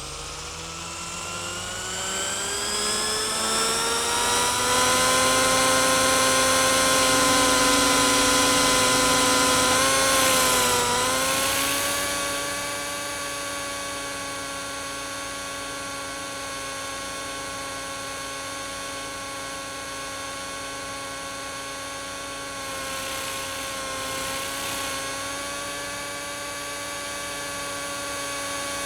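Small RC helicopter's motor and rotor spooling up with a rising whine, then running steadily. About ten seconds in, the pitch dips briefly and the sound becomes quieter, carrying on as a steady whine.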